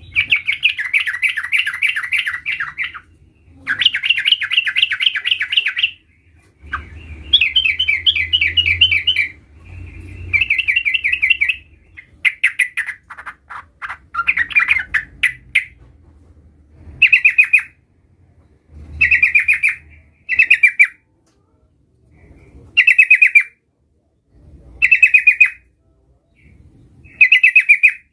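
Sooty-headed bulbul (trucukan) singing rapid, rolling chattering trills in repeated phrases. The first phrases are long and run two to three seconds each. Later the bird gives short bursts of under a second, about every two seconds.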